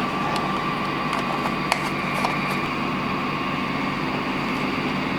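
Steady background hum with a few faint clicks and taps, the clearest about two seconds in.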